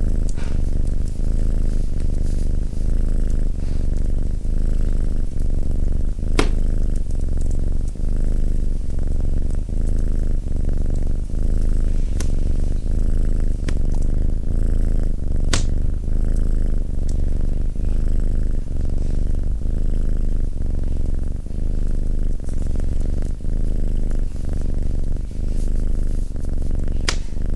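Domestic cat purring close up, a loud low purr pulsing in a regular rhythm. A few sharp crackles from a fireplace cut in, the clearest three spread through the stretch.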